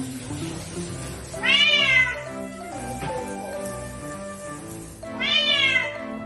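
Kitten meowing loudly twice during her first shampoo, each a long cry that rises and falls in pitch. The cries are distress at being bathed.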